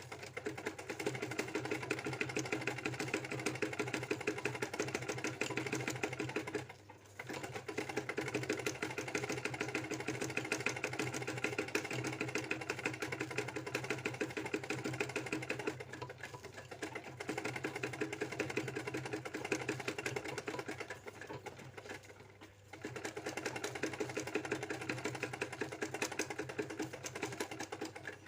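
Domestic sewing machine running in fast, even stitching, sewing a narrow satin (zigzag) stitch for cutwork embroidery. It pauses briefly about a quarter of the way in and again about three quarters of the way in, then carries on.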